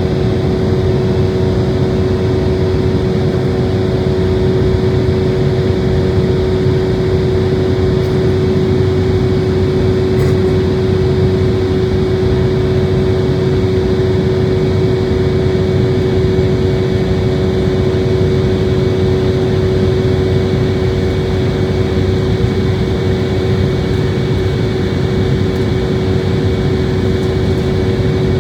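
Steady drone inside a jet airliner's cabin: engine and air rush with a constant hum, unchanging throughout.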